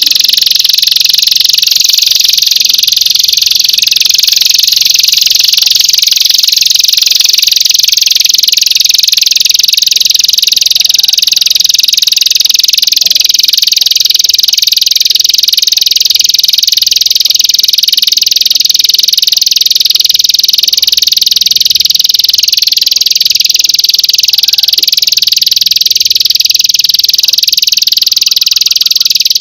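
A loud, continuous high-pitched buzzing trill, played as a songbird-training (masteran) recording.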